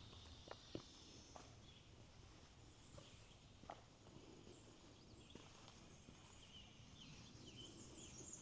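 Near silence: faint outdoor ambience with a few soft clicks and faint high chirps in the second half.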